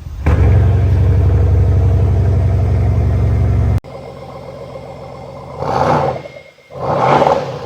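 Porsche Panamera Turbo's twin-turbo V8 held at a steady high rev for about three and a half seconds, cutting off suddenly. The engine then runs quieter, with a few short swells of revs rising and falling near the end.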